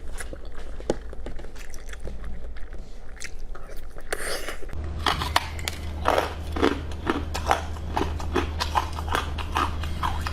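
Close-miked biting and chewing of food: a few soft mouth clicks at first, then from about halfway a quick run of bites and chews.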